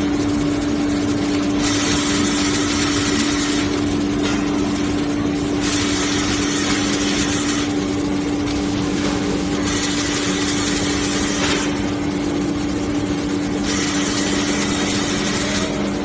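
Fully automatic jumbo toilet paper band saw cutting machine running with a steady motor hum. About every four seconds a high hiss comes in for roughly two seconds and stops, repeating through the whole stretch.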